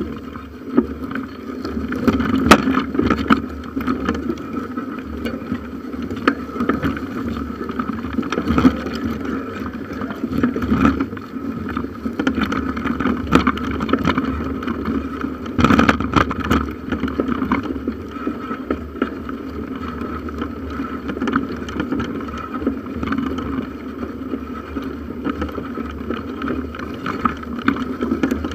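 Bicycle ridden along a forest trail, heard through a handlebar-mounted camera: a steady rumble of tyres and wind, with frequent small knocks and rattles from bumps in the trail.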